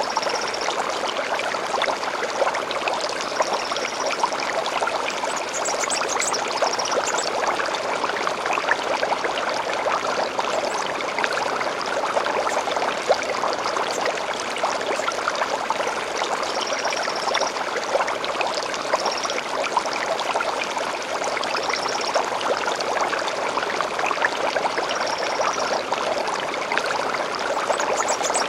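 Small stream bubbling and trickling steadily. Birds chirp briefly above it every few seconds.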